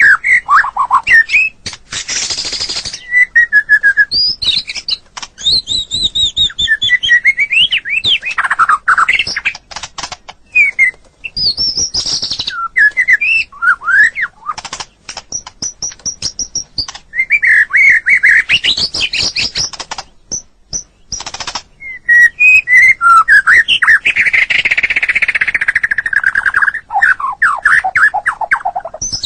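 White-rumped shama (murai batu) singing a long, varied song: clear whistled phrases and rapid trills sliding up and down, broken by harsh, raspy notes, with brief pauses between phrases.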